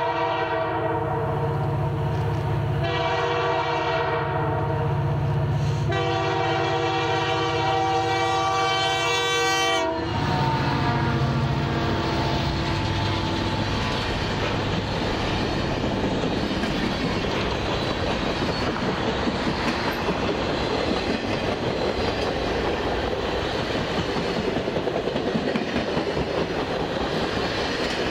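Canadian Pacific GP20C-ECO diesel locomotive sounding its air horn in long blasts of several notes at once, with a short break between them, ending about ten seconds in. Then the locomotive's engine rumbles past and the train's cars roll by with rhythmic wheel clicks.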